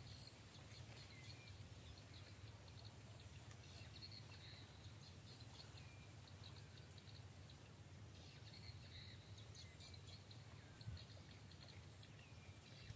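Near silence: faint outdoor ambience with a few faint bird chirps and a faint, on-and-off high-pitched buzz.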